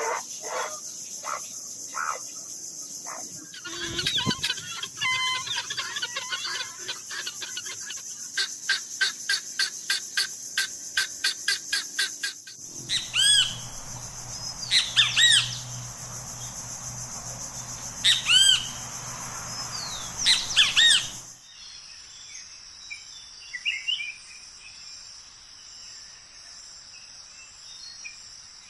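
A run of different bird calls, one after another. Repeated calls give way to a long rapid trill, then loud arching calls, then softer scattered chirps, with a steady high hiss behind them until about two-thirds of the way through.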